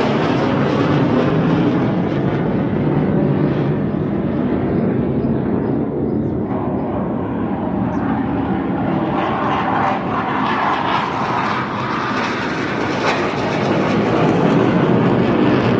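Airplane passing, its engine drone loud and continuous, easing a little midway and swelling again near the end.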